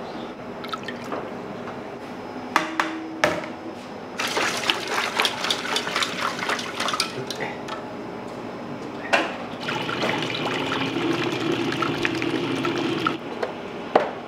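Water running from a tap into a sink or container, starting about four seconds in after a couple of sharp knocks, and steadying near the end as the container fills.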